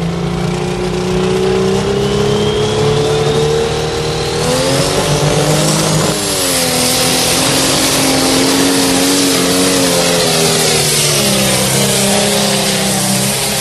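Modified pulling tractor's engine running loud and hard under load, with a high whine that climbs steadily in pitch over the first six seconds. The engine note then dips and settles at a new pitch.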